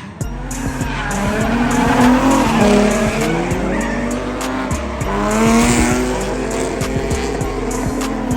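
Drift cars sliding, tires squealing in long wavering wails, with background music and a steady beat underneath. The sound comes in suddenly just after the start.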